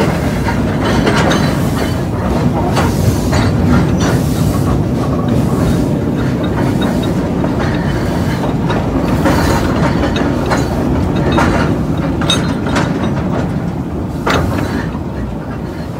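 Narrow-gauge locomotive and tender rolling slowly along the track, heard from on board: a steady rumble with irregular clanks and clicks from the wheels and running gear, easing slightly near the end.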